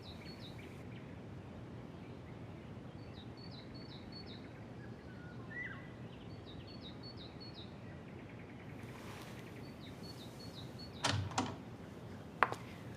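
Faint birds chirping in short repeated groups over a steady background hiss, with a couple of sharp knocks a little before the end.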